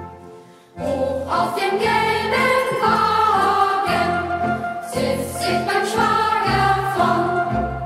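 Youth choir singing a German hiking song in unison with instrumental accompaniment. The voices come in about a second in, after a short break.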